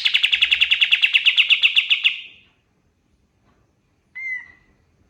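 Kapas tembak songbird singing a fast, rattling trill of about eleven notes a second, which stops about two seconds in. A single short call follows about four seconds in.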